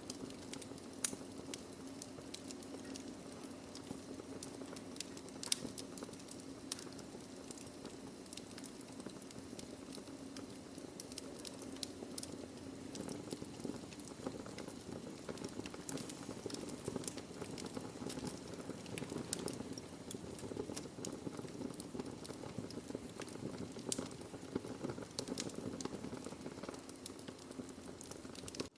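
Wood logs burning in a fireplace: a steady low rush of fire with frequent small crackles and sharp pops, the loudest pop about a second in.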